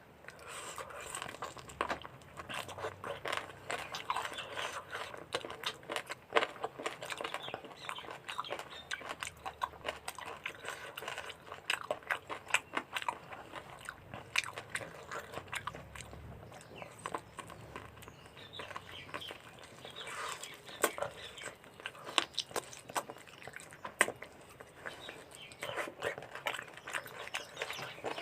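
Close-up chewing and biting of mutton curry with rice, a steady run of many short sharp mouth clicks.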